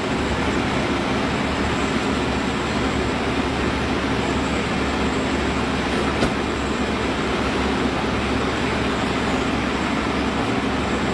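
Steady rumble of heavy vehicle engines running, an even street-level drone without breaks.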